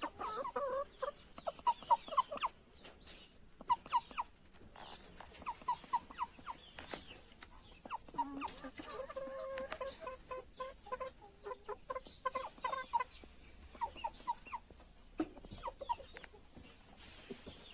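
Young Aseel chickens clucking in quick runs of short notes, over and over, with scattered sharp clicks.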